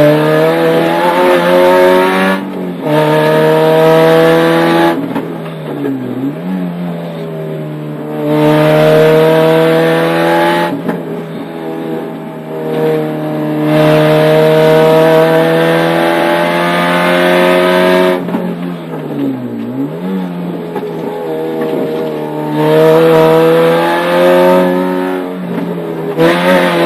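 Rally car engine heard from inside the cabin at full pace, revs climbing in each gear and breaking off at a string of gear changes. Twice, about six and twenty seconds in, the revs drop sharply and pick straight back up.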